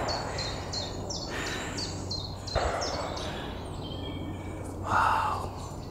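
Small songbird singing in woodland: a short, high note repeated about three times a second through the first half, with a brief soft rustle near the end.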